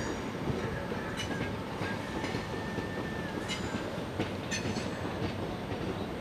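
Southern Class 377 electric multiple unit starting to pull away: a steady rail rumble with several sharp clicks of the wheels over the track, and a brief high-pitched squeal about two seconds in.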